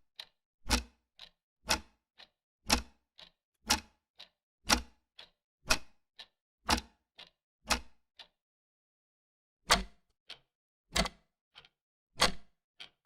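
Clock ticking: a loud tick about once a second, with a fainter tock between. It stops for about a second and a half near two-thirds of the way through, then goes on.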